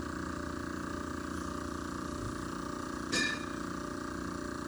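A machine running steadily with a constant drone of many even tones, broken once about three seconds in by a sharp metal clink that rings briefly.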